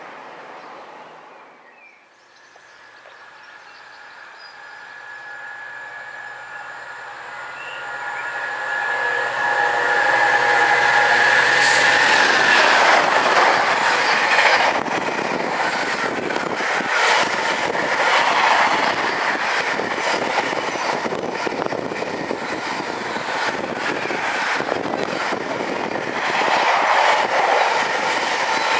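Container freight train approaching with a steady hum that grows louder for about ten seconds, then its container wagons passing close by in a loud rush, with a quick clatter of wheels over rail joints.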